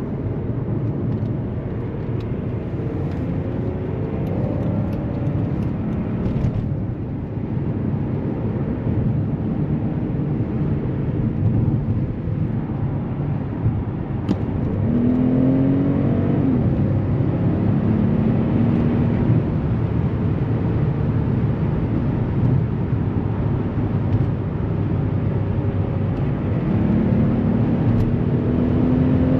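Mercedes S65 AMG's 6.0-litre V12 biturbo pulling at speed over a steady rumble of tyre and wind noise. The engine note climbs in pitch several times under acceleration, and the sound gets louder about halfway through.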